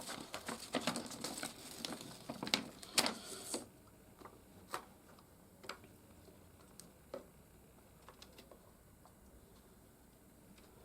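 Hands handling small plastic toy parts and a sticker sheet: quick clicking and rustling for about three and a half seconds, then a few single light clicks and taps.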